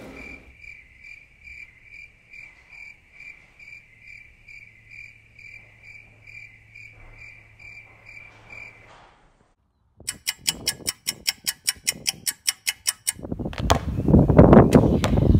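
A single cricket chirping steadily, about two chirps a second, for the first nine seconds. After a short silence comes a rapid run of sharp clicks, about six a second, for about three seconds. Near the end a loud rushing noise rises.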